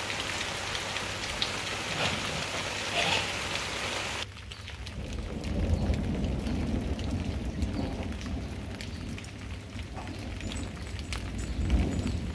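Rain pouring down with a steady hiss. About four seconds in, the sound changes abruptly to a softer patter with a low rumble that swells and fades twice underneath.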